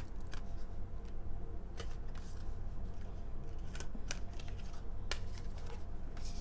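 Reading cards being handled: scattered light clicks and rustles, about half a dozen, over a steady low hum.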